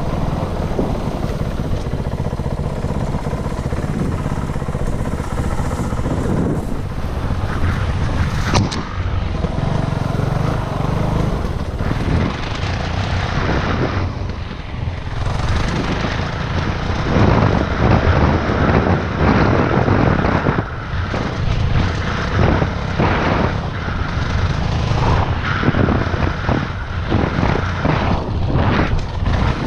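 Dirt bike engine running continuously, its level rising and falling throughout.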